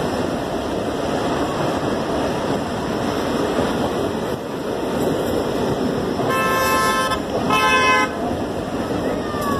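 Passenger train running noise heard from the open door of a coach: a steady rumble and rattle of wheels on the track. A horn sounds twice past the middle, two short blasts about half a second apart, the second one the loudest.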